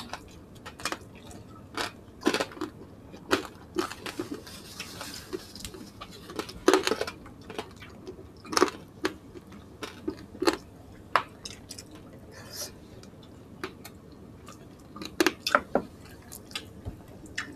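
Close-miked chewing and biting of roast chicken, crispy pork belly and rice eaten by hand: irregular wet mouth smacks and sharp crunchy clicks, with a short crisp crunching patch about five seconds in.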